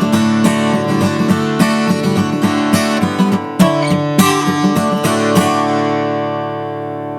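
Music: an acoustic guitar strumming chords in a steady rhythm, ending a little after five seconds in on a final chord that rings out and slowly fades.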